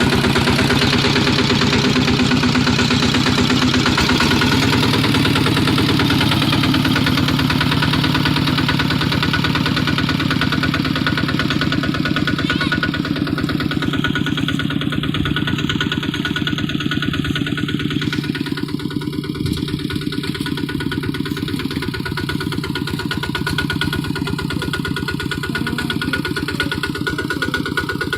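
Kubota RT155 single-cylinder diesel engine of a two-wheel hand tractor running steadily with a rapid, even firing beat, a little quieter in the second half.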